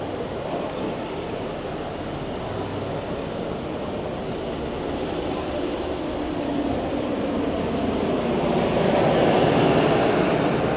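Street noise with a road vehicle going past, its rumble growing louder to a peak near the end.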